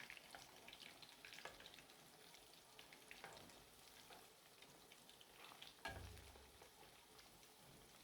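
Breadcrumbed chicken bites frying in oil: a faint, steady sizzle with small crackles. A soft knock about six seconds in.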